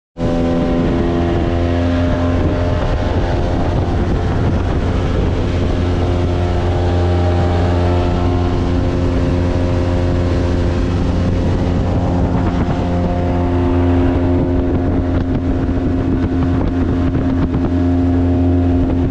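Boat motor running steadily at a constant speed.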